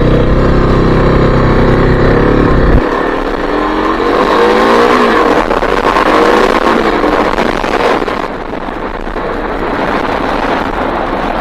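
Kawasaki KLX-300's single-cylinder four-stroke engine running under way on a dirt trail, its pitch climbing several times as the bike accelerates through the gears, over wind and tyre noise. A heavy low rumble drops away suddenly about three seconds in.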